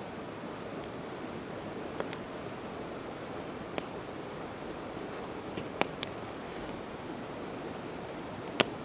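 Campfire of split evergreen wood crackling, with a few sharp pops, the loudest near the end, over the steady rush of a river. A cricket chirps about twice a second from about two seconds in.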